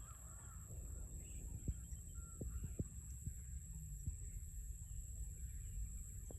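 Rice-paddy ambience: a steady high-pitched insect drone with a few faint bird chirps over a low wind rumble, and several soft clicks.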